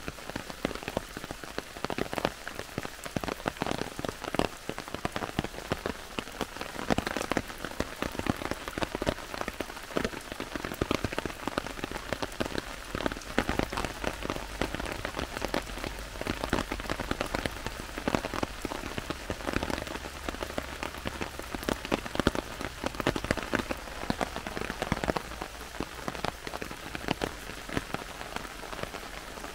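Heavy rain falling in a forest: a dense, steady patter of many individual drops.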